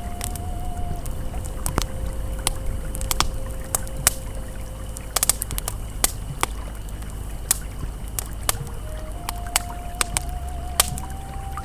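Wood campfire crackling with irregular sharp pops, over the steady low rush of a flowing river. A faint held ambient tone sits underneath, wavering briefly now and then.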